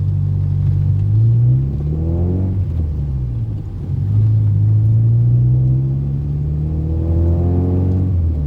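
Toyota Corolla AE80-series sedan engine accelerating hard: its pitch climbs, drops sharply on a gear change about two and a half seconds in, then climbs slowly again until another gear change near the end.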